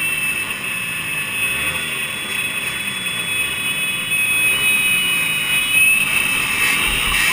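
Two-stroke motorcycle engines running, with a high steady whine and revs that rise and fall every couple of seconds.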